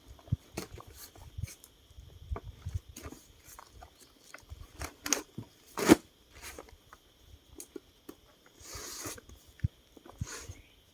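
Irregular crunching and clicking, one sharp crack a little under halfway through the loudest, over a faint steady high drone.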